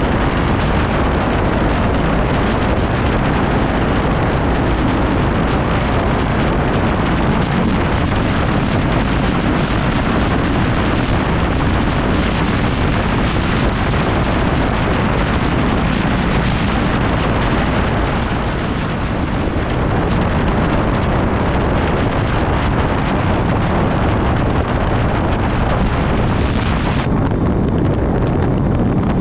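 Motorcycle riding at speed: steady wind rush buffeting the microphone over the running engine and road noise. The high hiss thins a couple of seconds before the end.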